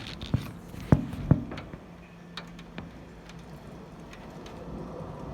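Several sharp clicks and taps, typical of a hand-held camera being handled, with a faint steady hum behind them.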